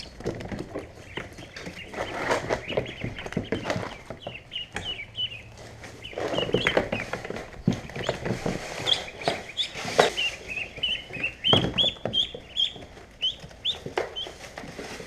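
A brood of ducklings peeping: many short, high chirps, thickest in the second half, with scratchy rustles and knocks among them.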